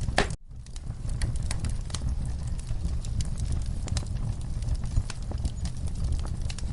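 Wood fire burning in a fireplace: a steady low rumble with frequent irregular crackles and pops. The sound drops out almost completely for a moment near the start.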